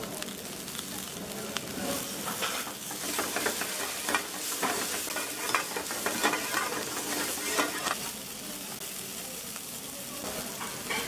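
Chopped garlic, green chillies and vegetables sizzling in hot oil in a black wok, with a steel ladle scraping and clinking against the pan as it stirs. The stirring clatter is busiest from about two seconds in to about eight seconds, after which the steady sizzle carries on alone.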